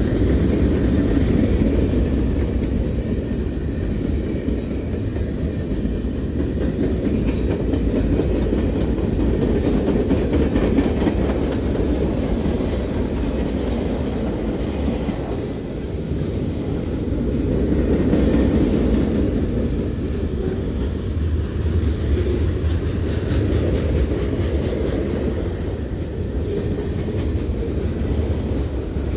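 Freight cars of a passing freight train rolling by close, their steel wheels running on the rails in a steady low rolling noise that swells and eases slightly as the cars go past.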